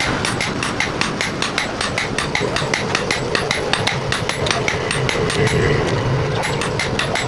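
Rapid, evenly spaced hammer blows on steel, about four or five a second, as hot steel is forged into an axe.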